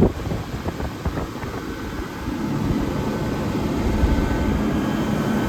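1978 Comfort-Aire Quietmaster 29,000 BTU room air conditioner running: the steady rush of its fan with a low compressor hum. It grows a little louder and the hum steadier about two seconds in.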